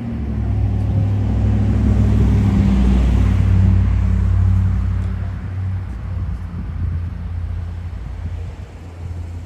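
Motor vehicle engine rumble with road noise, building to its loudest about three to four seconds in and then fading, like a vehicle driving past close by.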